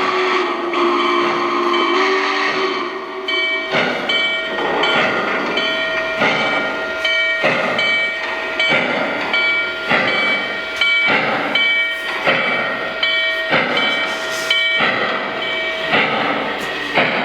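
Lionel Legacy RailSounds of a model J Class 4-8-4 steam locomotive pulling away: a steam whistle blows for about three seconds, then steady steam chuffs follow at about one and a half a second, with a bell ringing.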